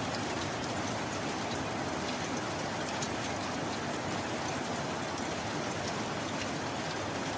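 Steady rain: a dense, even hiss of rainfall with many small, sharp drop ticks scattered through it.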